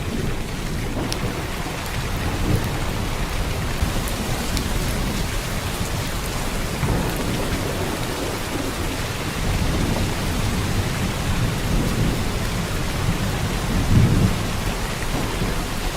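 Heavy downpour of rain, a steady, even hiss, over a low rumble that swells several times and is loudest near the end.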